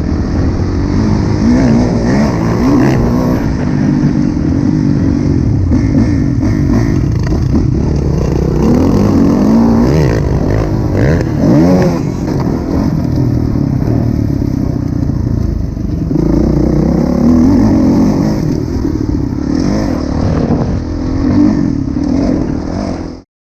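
2016 Kawasaki KX450F single-cylinder four-stroke motocross engine being ridden hard, its pitch rising and falling repeatedly as the throttle opens and closes around the track. The sound cuts off abruptly at the very end.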